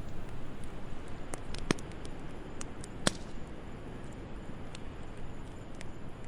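Wood fire crackling in a fireplace: a low steady hiss with a handful of sharp, irregular pops.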